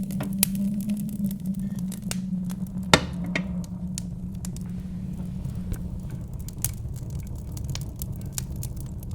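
Wood fire crackling with scattered sharp pops, one louder crack about three seconds in, over a steady low rumble of wind.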